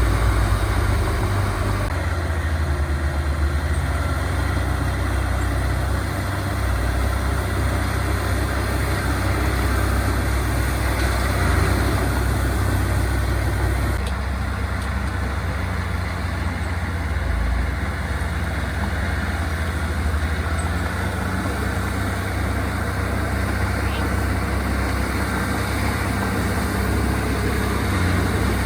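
Diesel engines of heavy earthmoving machinery running steadily, a continuous deep drone with small shifts in tone as the machines work.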